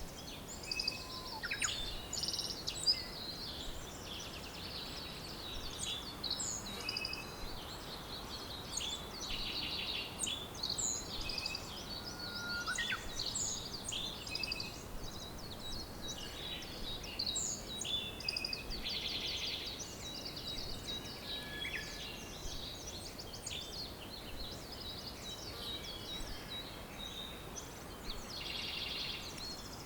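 Several songbirds singing and chirping together, with overlapping short whistles, rapid trills and buzzy phrases, over a faint steady background hiss.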